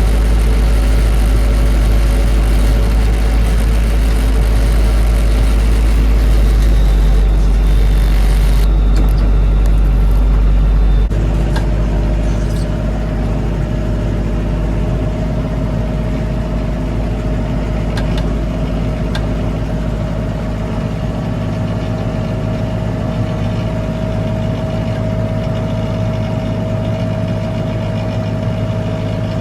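Lovol 50 horsepower tractor's diesel engine running steadily at working revs. About eleven seconds in, the sound changes abruptly: the deep rumble drops away and a steady higher whine carries on.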